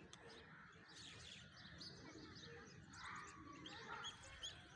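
Faint chirping of small birds over a low, steady background hiss.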